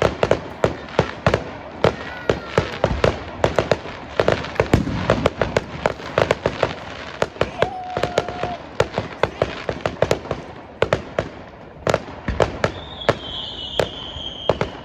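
Fireworks display: a dense run of sharp bangs and crackles, several a second, with a short steady whistle about halfway through and a high whistling tone near the end.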